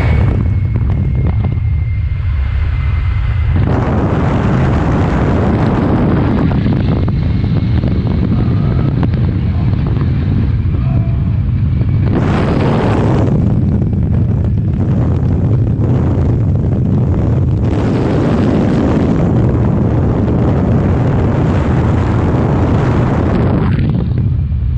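Car running flat out at highway speed: a loud, continuous rumble of engine, road and wind noise buffeting the microphone, swelling several times.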